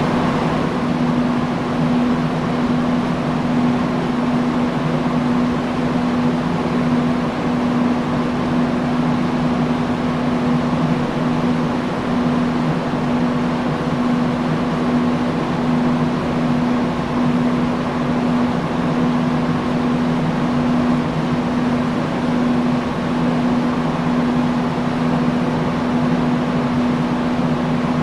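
Industrial fan running steadily: a constant rush of moving air with an unbroken low hum from the motor and blades.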